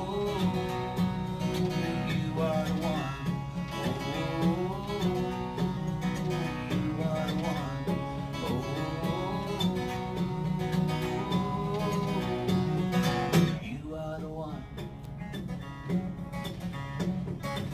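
Acoustic guitar playing a country song's instrumental intro, steady and unbroken.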